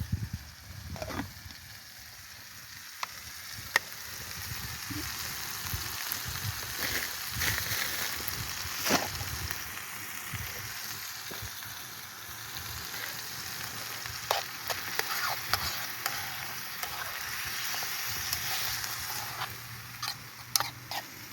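Food frying and sizzling in a pan, a steady hiss with a few sharp clicks scattered through.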